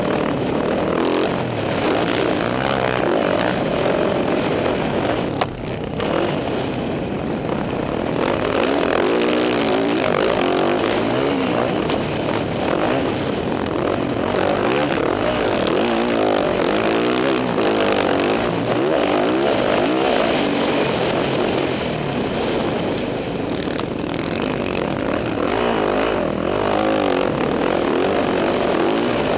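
Dirt bike engine being ridden hard, its pitch rising and falling continuously as the throttle opens and closes, with a brief drop off the throttle about five seconds in.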